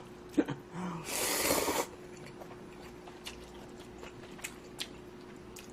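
A person eating spicy instant budae-jjigae ramen: a short, noisy rush of air lasting just under a second, about a second in, then faint scattered chewing clicks and mouth noises.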